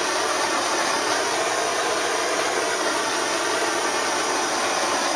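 Propane torch flame burning with a steady rushing hiss, used to heat a faded plastic fender flare and bring its black colour back.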